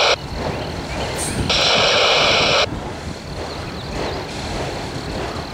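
Autorack freight cars rolling slowly past on the rails. About a second and a half in, a scanner radio gives a loud burst of static lasting about a second.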